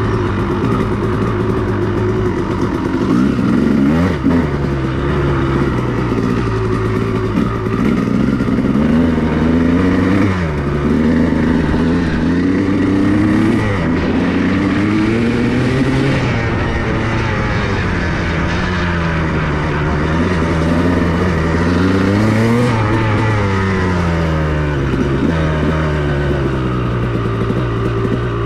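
2002 Honda CR250R's two-stroke single-cylinder engine being ridden hard, its pitch rising and falling over and over as the throttle is opened and shut, about every one to two seconds.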